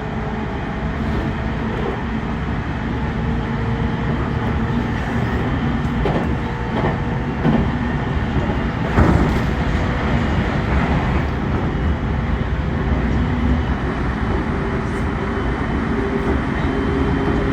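Train running along the rails: a steady rumble with wheel clatter and a faint steady motor whine.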